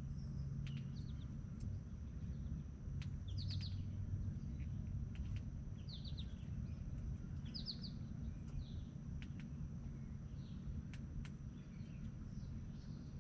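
Small birds chirping in short, quick bursts of high notes, a few times, over a low steady background rumble, with scattered sharp clicks.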